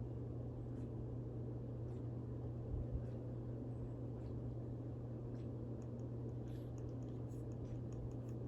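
Steady low hum of room tone with faint background hiss, and one soft low bump about three seconds in.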